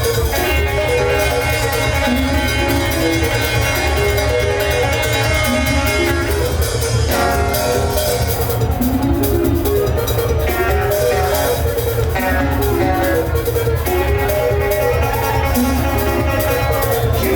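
Instrumental passage of live band music: a plucked lead guitar playing quick melodic runs over a steady bass line and drums.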